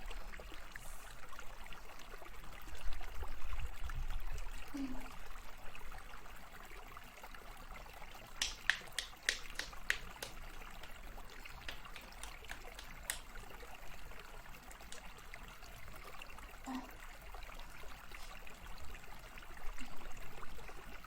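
Faint, steady trickle of running water. A quick run of sharp clicks or taps comes about eight seconds in, with one more a few seconds later.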